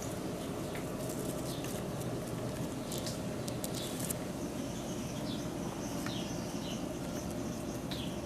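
Steady outdoor background noise with a scatter of short, high, falling bird chirps and a cluster of sharp clicks a few seconds in.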